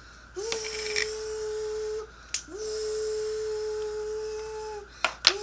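Toy blender running in three separate bursts. Each burst rises quickly to a steady whine and runs for about two seconds before cutting off, and a couple of sharp clicks come near the end.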